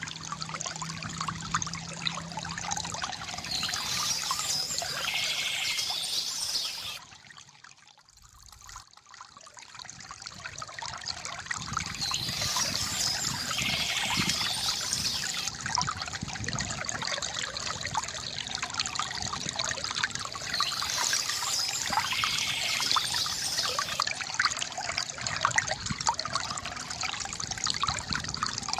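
Water trickling and splashing steadily from a bamboo fountain. About seven seconds in it fades down almost to nothing, then builds back up over a couple of seconds.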